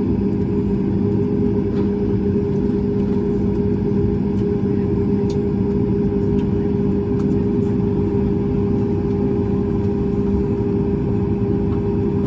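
Inside the cabin of a Boeing 737-9 MAX, a steady rumble with a constant hum from its CFM LEAP-1B engine running at idle after start. The pitch holds level throughout, with a few faint ticks from the cabin.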